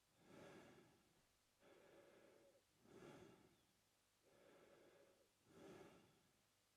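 A man breathing slowly and evenly in and out through his mouth, about three full breaths. Each cycle takes about two and a half seconds, a softer, steady breath alternating with a louder, airier one.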